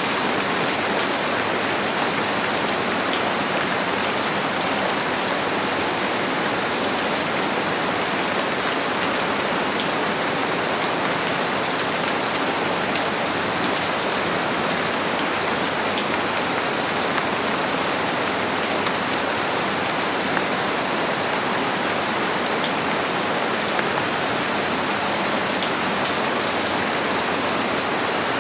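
Steady rain falling: an even hiss with many faint, scattered drop ticks.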